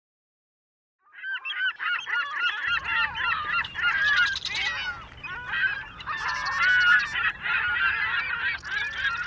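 A flock of birds calling all at once, many overlapping, wavering calls in a continuous clamour that starts suddenly about a second in.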